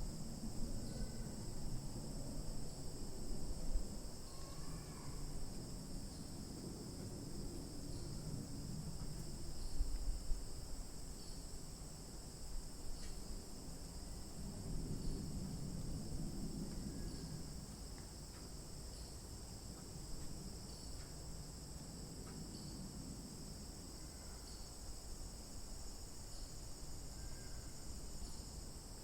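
A steady chorus of crickets trilling in two high, unbroken bands. Underneath are uneven low rumbles and soft thuds from footsteps on the trail, with a few faint bird chirps.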